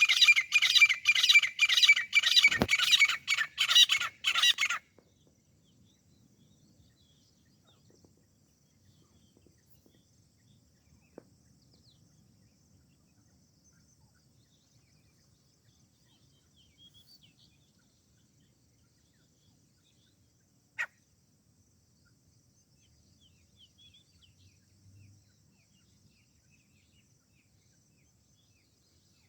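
Grey francolin calling: a loud run of harsh, rapidly repeated notes, about three a second, that stops abruptly about five seconds in. After that only faint background sounds remain, with one sharp click about twenty seconds in.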